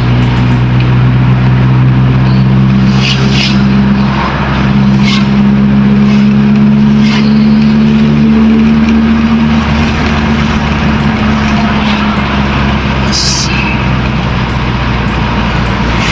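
Toyota Corolla's 2E four-cylinder engine running steadily on a test drive, its note shifting about four seconds in.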